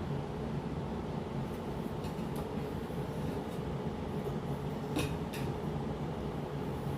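A steady low hum, like a fan or air conditioner running, with a few light clicks and two sharper clicks about five seconds in.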